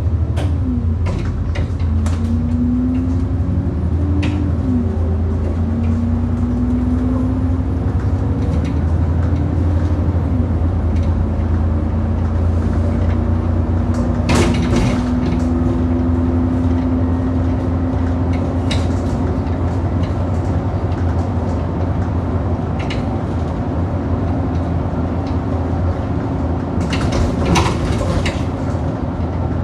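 Bus running on the road, its engine and drivetrain humming with a whine that rises and falls as it changes speed. Sharp loud knocks come from the bus over potholes every few seconds, the biggest about halfway through and a cluster near the end.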